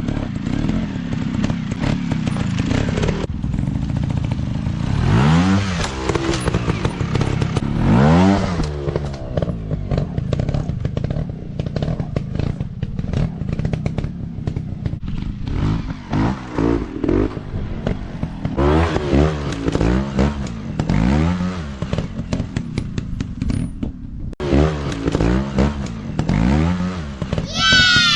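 Off-road dirt bike engines revving in repeated short bursts, the pitch rising and falling again and again, with frequent knocks throughout. A sharp, high rev rises just before the end.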